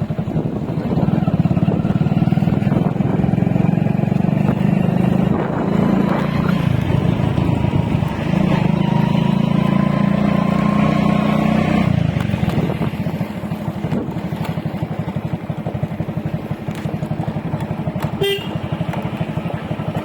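Motorcycle riding on the road: engine and wind noise, loud with a rising engine pitch for about the first twelve seconds, then easing to a quieter steady run. A short beep sounds near the end.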